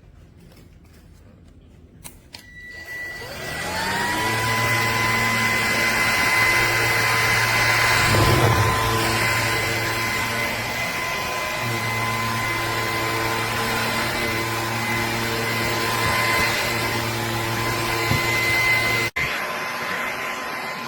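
Bissell PowerClean vacuum cleaner switching on: the motor's whine rises over about two seconds and settles into a steady run. Near the end the sound cuts off abruptly and picks up again slightly different.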